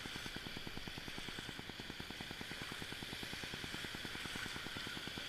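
River water rushing around a paddled raft, a steady noise with a fast, even low pulsing beneath it.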